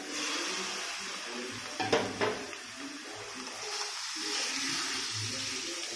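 Raw chicken pieces dropped into hot mustard oil in a kadhai, sizzling steadily as they start to fry. A couple of sharp metal clinks about two seconds in.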